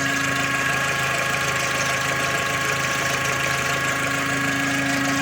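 Skoda Octavia / VW Golf IV 1.6-litre petrol engine (AKL/AEH) idling, with a steady whistling hum under the hood that does not rise with revs. The owner traces it to the crankcase ventilation hose, which is not oil-resistant and has lost its shape.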